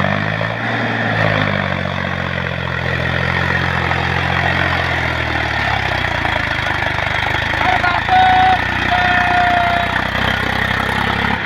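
Tractor engine running steadily at a low, even pitch. Two short high tones sound about eight and nine seconds in.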